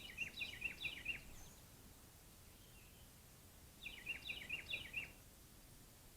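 A songbird singing two short phrases, each a rapid series of six or seven repeated down-slurred notes lasting about a second. The first phrase comes at the start and the second about four seconds in.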